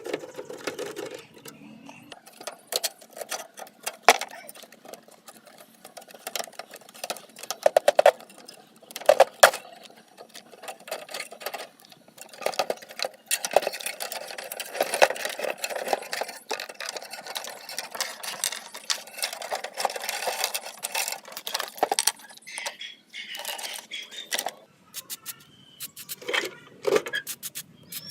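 Irregular clicks, knocks and scraping from hand work on the metal parts of an old rusty table fan.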